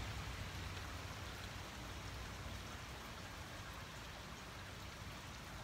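Thunderstorm rain falling steadily, growing gradually quieter as the storm eases off.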